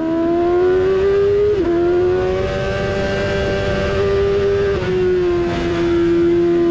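Yamaha YZF-R6 600 cc inline-four race engine running at high revs under load, held steady with two brief dips in pitch, about one and a half seconds and five seconds in.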